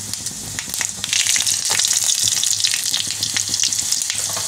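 Green chillies and whole spices (cumin, cinnamon, cloves) sizzling in hot ghee in a wok, being stirred around the pan with a few small scraping clicks. The sizzle gets louder about a second in.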